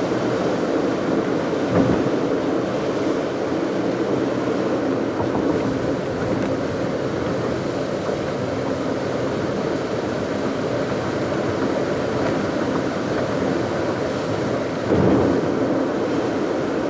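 A car driving along: steady road and engine noise, with a brief louder jolt about two seconds in and another near the end, like the wheels going over bumps.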